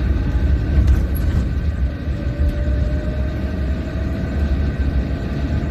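Steady low rumble of a car being driven in traffic, engine and road noise heard from inside the cabin.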